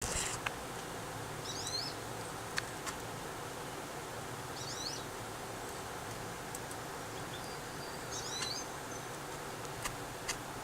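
Three short, high chirping phrases from a small bird, about three seconds apart, over a steady background hiss. A few sharp taps or clicks sound in between.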